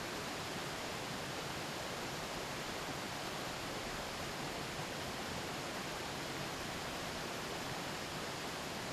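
A river's steady rushing murmur, an even wash of water sound with no single splashes standing out.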